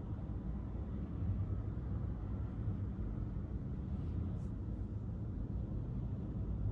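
A car driving, with steady low engine and road rumble.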